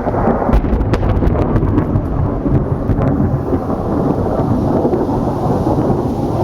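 Thunder rumbling without a break from a lightning strike very close by, with rain falling and a few sharp ticks in the first three seconds.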